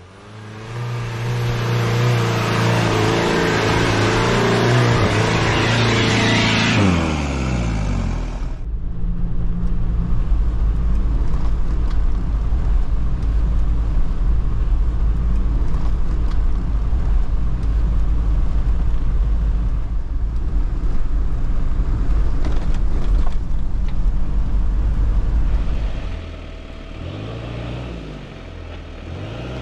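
Daihatsu Rocky 4x4's engine revving hard, with a loud hiss over it, for about eight seconds. Then comes a steady low engine note heard from inside the cab. Near the end, quieter revs rise and fall as the truck drives through water.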